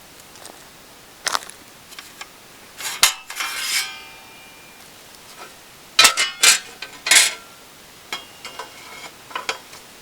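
Metal pieces clanking and clinking against each other in several separate knocks, the loudest about three and six seconds in, some ringing briefly like thin sheet steel.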